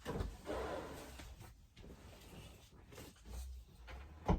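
Handling noise from folding away an RV gaucho bed: a rustling shuffle in the first second or so, quieter movement after, and one sharp knock near the end.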